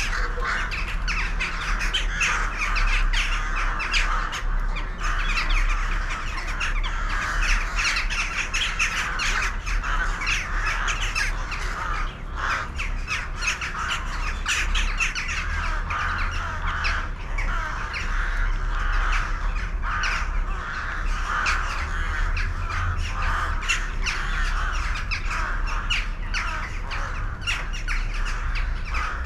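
A large flock of birds calling over one another in a dense, unbroken chatter, with a steady low rumble underneath.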